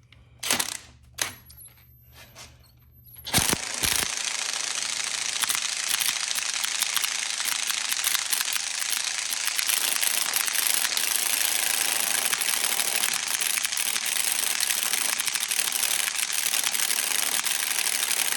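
A few clicks of a socket being fitted, then an impact wrench hammering steadily for about fifteen seconds on a stubborn left-hand-thread bolt held with red Loctite, stopping abruptly at the end.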